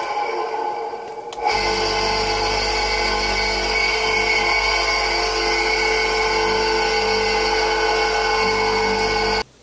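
Homemade grinder driven by a washing-machine motor, running with a loud, steady whine of many tones. It dips and winds down briefly at the start, picks up again about a second and a half in, and cuts off suddenly near the end.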